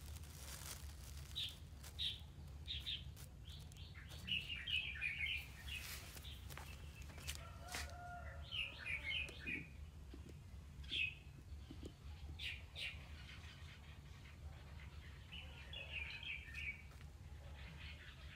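Small birds chirping in short high-pitched bursts, several times, over a low steady hum.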